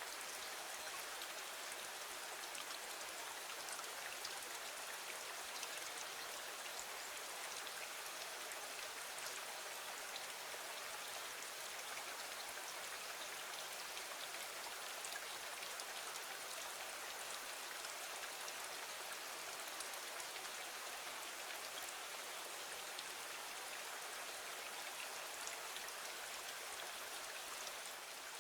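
Steady rain falling, an even hiss with fine drop patter, as of rain on a window.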